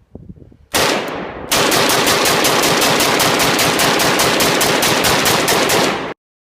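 A loud shot about a second in, then rapid automatic gunfire at roughly six or seven shots a second for about four and a half seconds, which cuts off abruptly.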